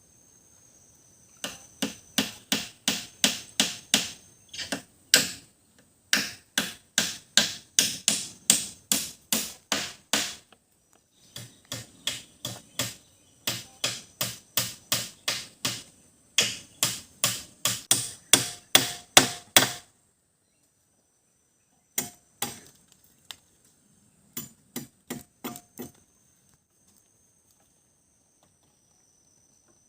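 Rapid blows of a parang (machete) on wood, about three or four strikes a second in runs of several seconds with short breaks, thinning to a few scattered strikes near the end.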